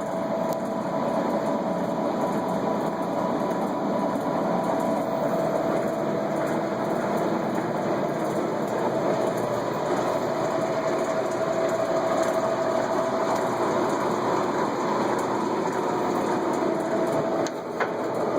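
Monarch 20 x 144 engine lathe running under power, its geared drive giving a steady mechanical whir with a constant whine. Near the end the sound dips briefly and there is a click.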